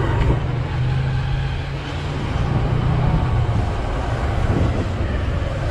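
Hero Hunk motorcycle's single-cylinder engine running steadily at low riding speed, its note shifting a little in pitch, with road and wind noise.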